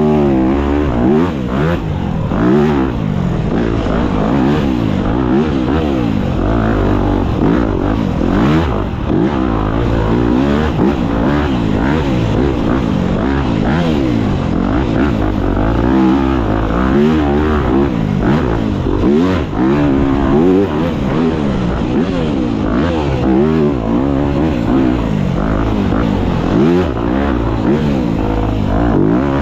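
Dirt bike engine revving up and down continuously, its pitch rising and falling every second or two as the throttle is worked on and off.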